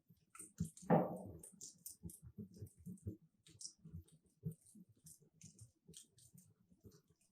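Wood fire crackling in a fireplace: scattered small snaps and clicks, with one louder pop about a second in.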